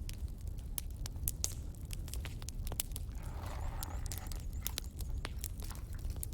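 Fireplace fire crackling: irregular sharp pops and snaps over a steady low rumble of the flames, with a brief soft rustling noise about three seconds in.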